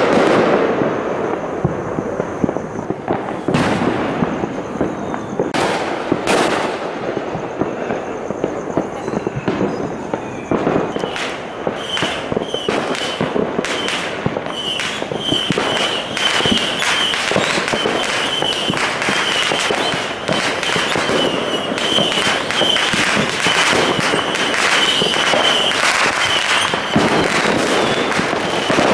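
Fireworks going off all around: scattered separate bangs at first, then a dense, continuous run of cracks and bangs from a little over a third of the way in. A faint steady high tone runs underneath the later barrage.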